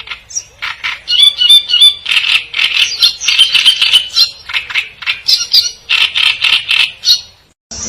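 Birds chirping and chattering in a fast, dense run of short calls that stops abruptly near the end.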